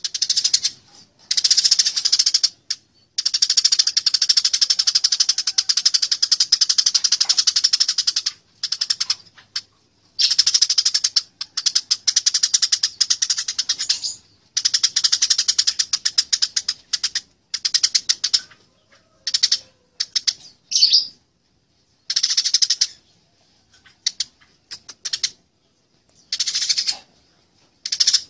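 Eurasian tree sparrows fighting: rapid, dense chattering runs of chirps in bursts of one to several seconds, broken by short, abrupt gaps.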